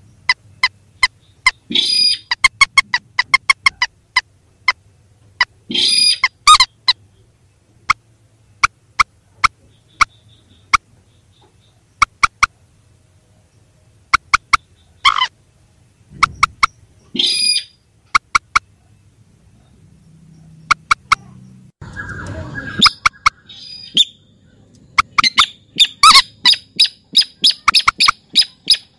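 Recorded calls of rails (Indonesian 'mandar' and 'sintar'): short, sharp notes given singly and in quick runs, with pauses between bouts and a fast string of notes near the end.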